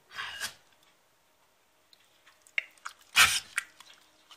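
A dog sneezing: a short breathy burst at the start, a few small clicks, then one sharp sneeze about three seconds in, the loudest sound.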